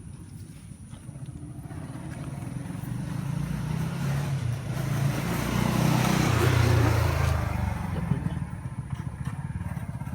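Engine of a passing motor vehicle, growing louder to a peak about six to seven seconds in, then fading away.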